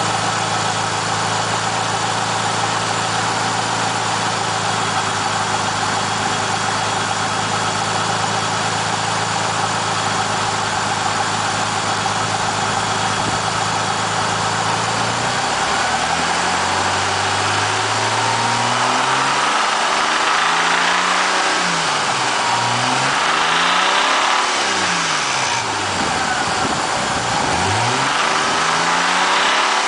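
2000 Mitsubishi Eclipse engine idling steadily, then revved up and down again and again from about halfway through, showing a noise the owner calls weird.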